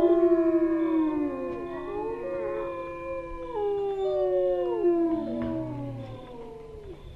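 A pack of wolves howling together: several long, overlapping howls, most sliding down in pitch, dying away toward the end.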